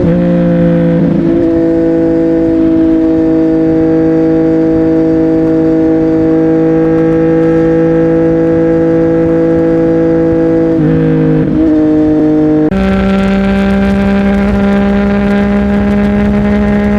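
CFMOTO 675NK inline-three motorcycle with an aftermarket Burnout titanium exhaust, ridden at steady revs with a steady, even exhaust note. The note dips and breaks briefly about a second in and again around eleven seconds, as in gear changes, and near thirteen seconds it steps up to a higher pitch with a harsher edge.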